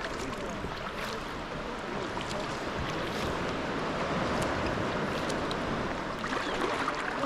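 Sea kayak being paddled on the sea: a steady wash of water against the hull and paddle blades, with a few faint clicks.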